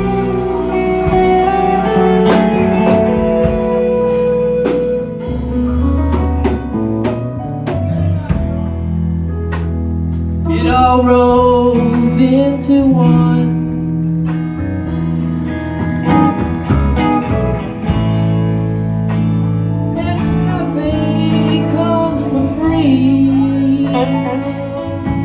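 Live rock band playing a slow ballad: electric guitar over steady bass and drum kit, with a bending lead melody rising over it twice.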